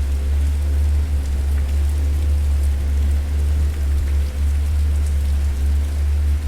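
Wood fire crackling in a fireplace: faint scattered crackles over a steady low rumble.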